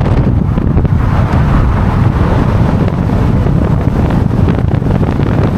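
Loud, steady rush of wind buffeting the microphone, with the running noise of a moving car underneath.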